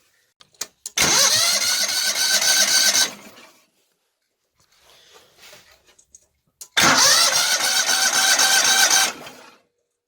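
An electric starter motor cranks an engine in two bursts of about two and a half seconds each. Each burst starts with a rising whine that levels off into a steady, fast pulsing, then cuts off suddenly, with the engine never settling into running.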